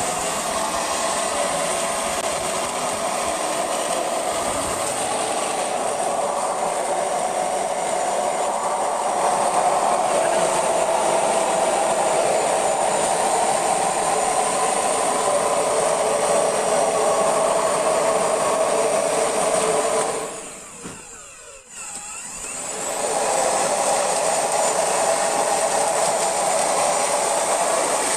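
A motor-driven cleaning machine running steadily with a high whine and rushing noise. About 20 seconds in it winds down, then spins back up to full speed a couple of seconds later.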